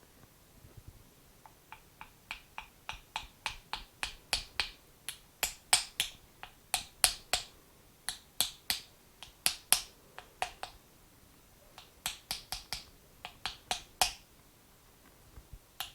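Rebuilt scooter starter motor being turned by hand, giving a run of sharp clicks about two or three a second with a short pause partway through. The armature catches rather than spinning free, which the owner traces to a cracked housing magnet sitting out of place.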